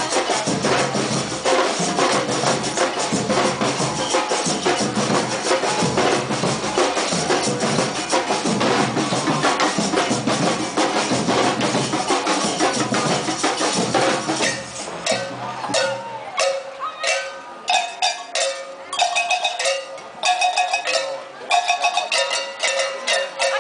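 Drums of a street drum band playing a dense, continuous beat. About two-thirds of the way through the full drumming drops away, leaving separate sharp strikes, many ringing briefly at a fixed pitch.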